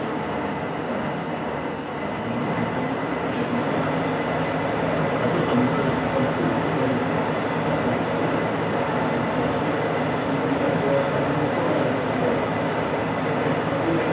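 Steady machinery noise: a continuous dense rumble with a thin steady high whine running through it.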